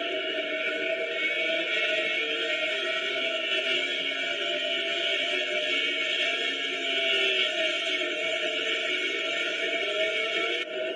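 Many voices singing together in a steady, sustained chorus over a constant crowd hiss, dipping briefly near the end.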